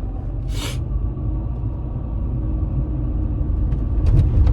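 Steady low rumble of a car's engine and road noise heard from inside the moving car, growing louder near the end. A short hiss comes about half a second in.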